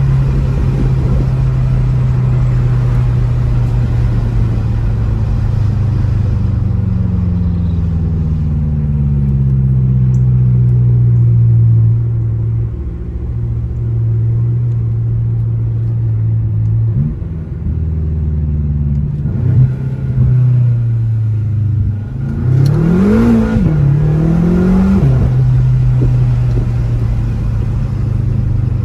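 BMW F10 M5's twin-turbo V8 under way with its mufflers deleted: a steady low drone whose pitch drifts slowly with road speed. Near the end the throttle is blipped twice, the note rising and falling quickly each time.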